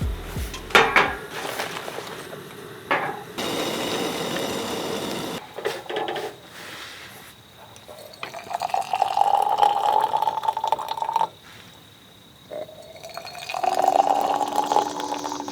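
Water poured into a container twice, the pitch rising as it fills, with a few clinks of the vessel.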